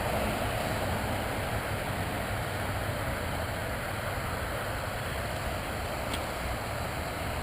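Motocross dirt bike engines running at a distance, heard as a steady, even drone with a low rumble; a brighter band of engine sound fades away within the first second.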